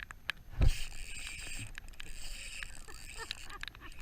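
Rain pattering, a steady hiss with scattered sharp ticks, after a deep thump about half a second in.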